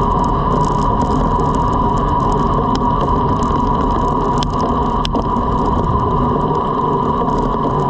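Steady rush of wind and road noise from a road bike riding at speed, with a steady whine running through it and a few sharp clicks midway.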